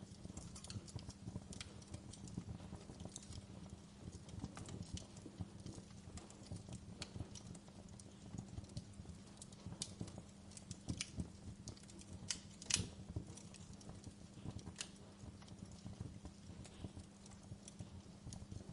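Wood fire crackling, with irregular sharp pops and snaps over a low steady rumble; the loudest pop comes about two-thirds of the way through.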